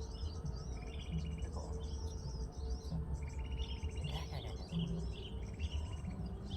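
Small birds calling: high, quick curving chirps mixed with short buzzy trills that repeat every second or so, over a steady low rumble.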